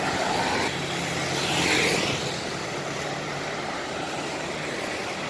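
Large bus engine running with road noise as a bus moves past, a swell of hiss about a second and a half in.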